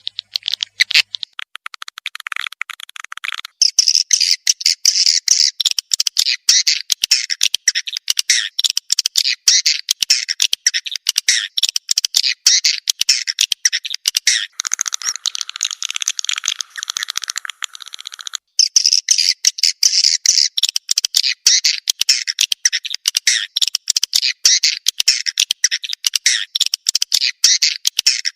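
Recorded edible-nest swiftlet calls, the lure sound played in swiftlet houses to call the birds in and get them to roost: dense, rapid twittering chirps with a short break about two-thirds of the way through.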